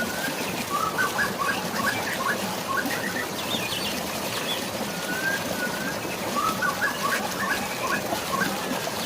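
Songbird singing over steady rushing water and rain: a short whistled note followed by a quick run of chirps, the phrase repeated twice.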